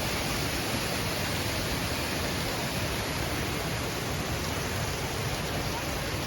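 Steady rush of fast-flowing river water and waterfalls running over rocks, an even hiss with no breaks.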